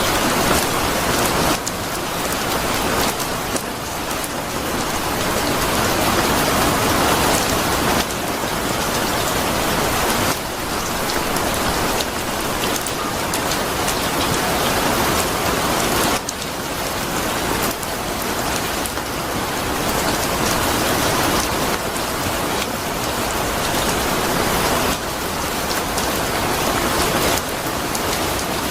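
Steady heavy rain, an even hiss. Every few seconds its loudness drops abruptly and then slowly builds back up.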